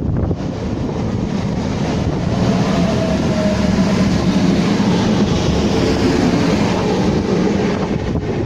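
A train passing on the main line, its rumble building over the first couple of seconds, peaking mid-way and easing off near the end.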